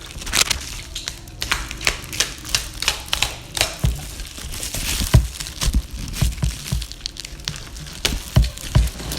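Packaging being unwrapped by hand: wrapping crinkling and tearing, with many sharp crackles and occasional low knocks.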